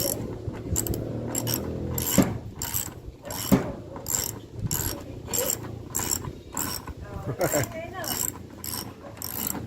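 A hand tool worked in quick, even strokes, about two or three a second, each a short sharp click. A low steady hum fades out about two seconds in.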